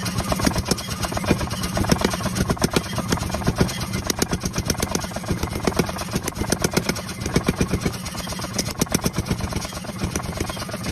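Mechanical power hammer running and pounding hot steel in a rapid, uneven string of knocks over the machine's steady running noise, forging the wrench steel into a blade.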